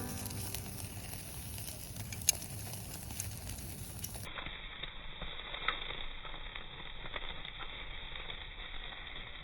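Wood campfire crackling steadily, with scattered sharp pops from the burning wood under a grill net of meat.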